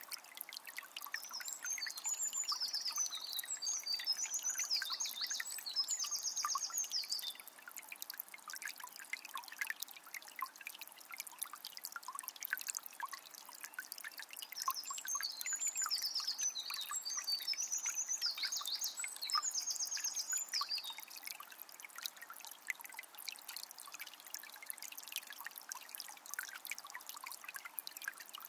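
Shallow forest river babbling and trickling steadily with many small splashes. A songbird sings twice, each song a long, high, warbling phrase with rapid trills, one near the start and one about halfway through.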